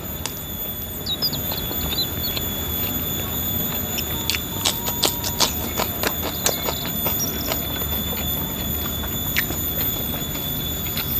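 Close-up eating: chewing with scattered wet clicks from the mouth. Behind it an animal keeps up a steady high-pitched whine, the 'nging', with a few small chirps about a second in.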